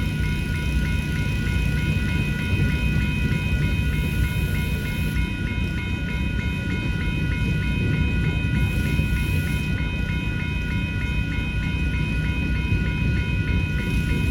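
Freight train rolling through a grade crossing with a steady low rumble, while the crossing bells ring continuously in a fast, even rhythm.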